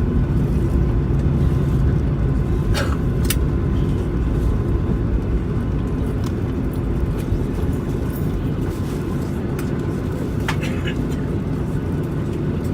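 Steady low rumble in a Boeing 737 cabin as the airliner rolls along the ground after landing, easing slightly over the seconds, with a few sharp clicks or rattles about three seconds in and again near ten seconds.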